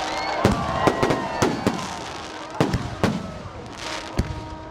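Fireworks display: an uneven run of about eight sharp bangs as fireworks burst, with a noisy hiss between them.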